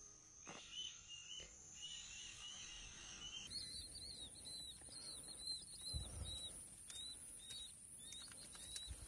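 Faint repeated bird calls, short chirps about two a second, that step up in pitch about three and a half seconds in. A steady high whine runs beneath them from then on.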